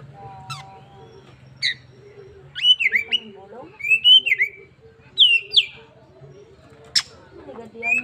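Oriental magpie-robin (kacer) singing: a series of loud, clear whistled phrases that rise and fall in pitch, with a sharp high call about seven seconds in. Under the song there is a faint low hum that stops near the end.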